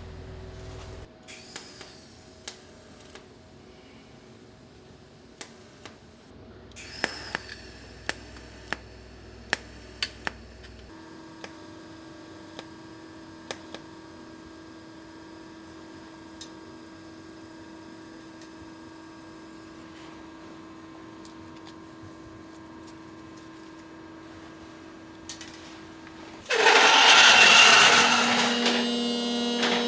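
Scattered light clicks and knocks over a steady low hum. Near the end a handheld electric power tool starts and runs loudly with a high whine.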